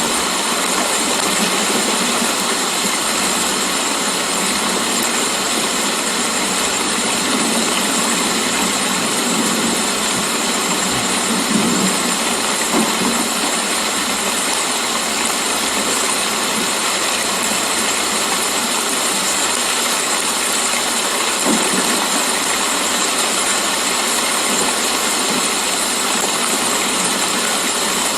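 Steady, continuous rain, an even hiss with no let-up.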